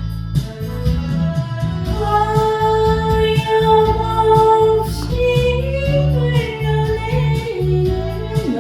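Trot backing track with a steady beat, and a woman singing long held notes over it; about halfway through, one note bends and wavers up and down.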